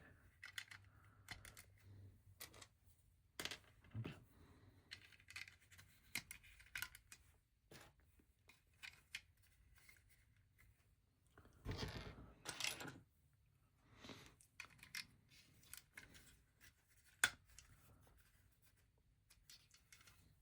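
Vintage LEGO plastic pieces being handled and snapped together: scattered small sharp clicks, a longer rustling stretch about twelve seconds in, and one louder click a few seconds later.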